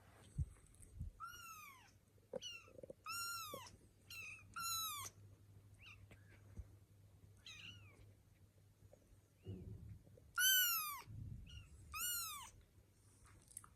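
Kittens mewing: about seven short, high-pitched mews, each rising then falling in pitch. The loudest two come near the end.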